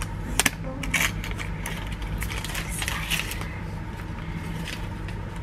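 Packaging being handled during an iPad Air unboxing: crinkling and scattered clicks, with a sharp double click about half a second in. A steady low hum runs underneath.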